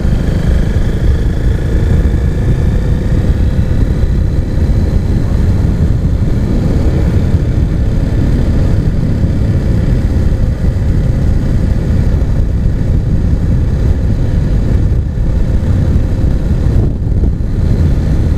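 Husqvarna Svartpilen 401's single-cylinder engine, breathing through an aftermarket Arrow exhaust, running steadily under way with a deep, even rumble.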